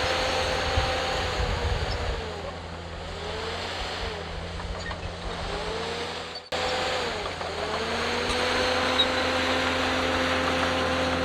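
Heavy diesel earthmoving machine engine running under load. Its note dips and swings down and up for a few seconds, cuts out abruptly about six and a half seconds in, then runs steady again.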